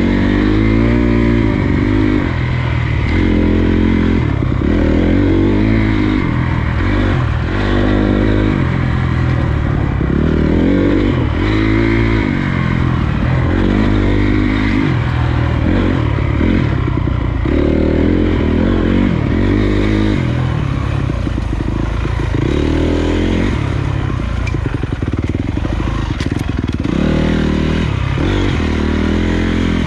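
Honda CRF250 dirt bike's single-cylinder four-stroke engine under way on a trail, its revs rising and falling every second or two as the throttle is worked on and off, with rattles from the bike over rough ground.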